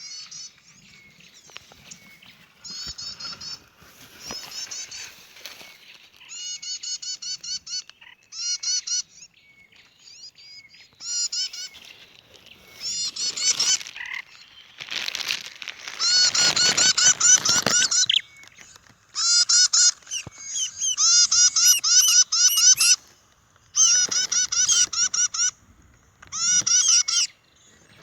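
A bird calling in bursts of rapid, evenly repeated harsh notes, each burst lasting one to two seconds with short pauses between, louder from about halfway through.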